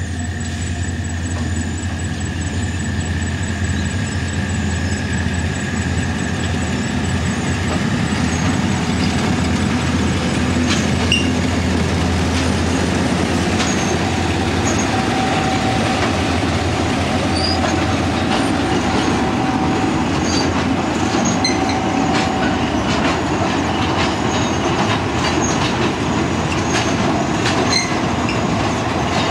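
Diesel-hauled passenger train crawling over a wooden trestle viaduct directly overhead, taken at the slowest speed over the timber spans. The locomotive's engine drones low for the first half, then the coaches roll past with a continuous ticking and clacking of wheels and a thin steady whine for a few seconds midway.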